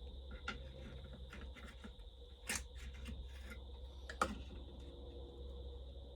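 Small clicks, taps and rustles of parts being handled and fitted on a McCulloch 800-series chainsaw, with two sharper clicks about a second and a half apart near the middle. A steady low hum runs underneath.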